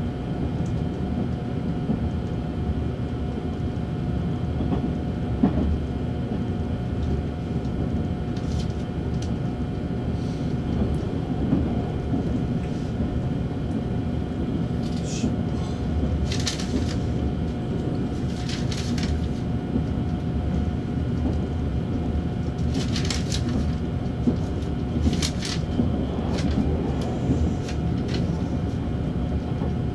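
Cabin noise of a JR 8000 series electric train under way: a steady low rumble of wheels on rail with a constant hum. A few short hisses come in near the middle and toward the end.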